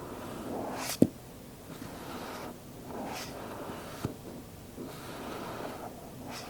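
Lid of a snug-fitting cardboard Apple product box being slid off and pushed back on, making repeated airy swishing sounds, with a sharp tap as the lid seats about a second in and a softer tap about four seconds in.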